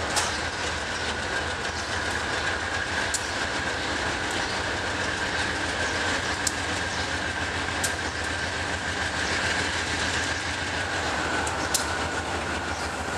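Providence and Worcester freight train led by two diesel locomotives rolling slowly toward the listener: the engines and wheels give a steady rumble, with a steady high whine that sinks slightly near the end and a few sharp clicks.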